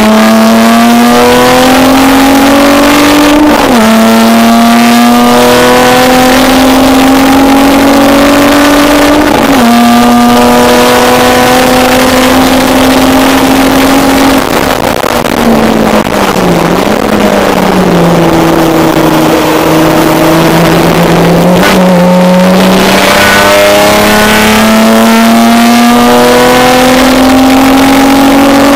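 Race car engine heard from inside the cabin on track, pulling hard and rising in pitch, with quick drops in pitch about four and nine seconds in as it shifts up. Around the middle it eases off and dips low while the car slows, then it runs steadily before climbing in pitch again near the end.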